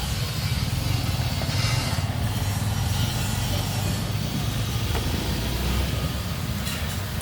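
Steady low rumble of a running motor-vehicle engine.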